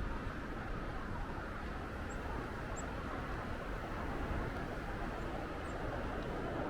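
Strong, gusty wind blowing as an even, rushing roar with low rumbling buffeting on the microphone.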